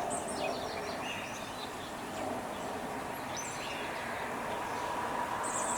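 A few faint, short bird chirps over steady background noise.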